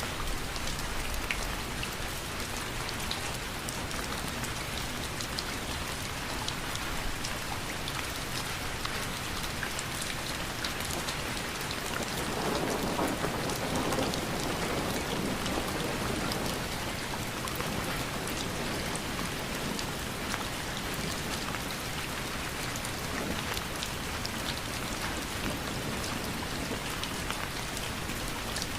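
Steady rain falling, with many individual drops ticking. It swells a little louder for a few seconds about halfway through.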